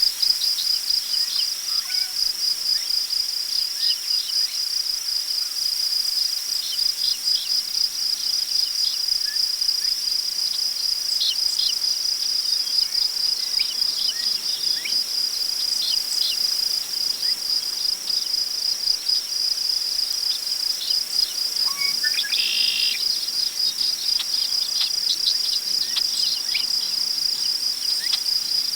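Crickets chirping in a steady, fast-pulsing chorus, with scattered short bird chirps throughout and a longer bird call about two-thirds of the way in. Faint prairie wind rustles the grass underneath.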